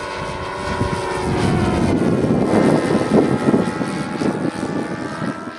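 Radio-controlled model airplane's ASP 52 four-stroke glow (nitro) engine running with its propeller, rising in loudness toward the middle and then fading.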